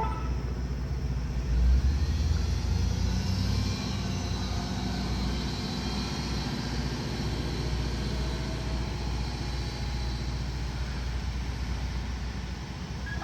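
Freightliner ice cream truck's engine running with a steady low rumble, swelling briefly louder about two seconds in.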